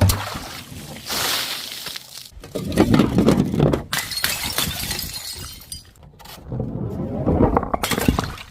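Glass bottles shattering: a sharp impact at the start, then repeated crashes of breaking glass with scattering shards, loudest about three seconds in and again near the end.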